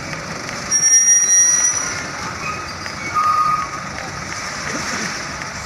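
Heavy truck brakes squealing twice over a steady background of engine and traffic noise: a high squeal about a second long starting just under a second in, then a shorter, lower squeal around three seconds in.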